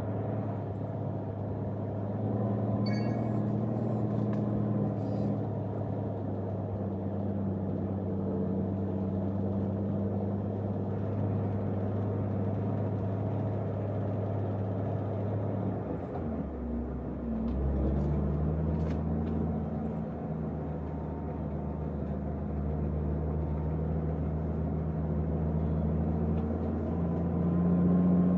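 Heavy vehicle engine running steadily with an even hum. About sixteen seconds in, its pitch dips and changes for a moment, then it settles back into a steady run that grows a little louder near the end.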